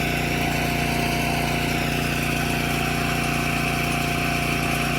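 A small engine running steadily at a constant speed, holding one even pitch throughout.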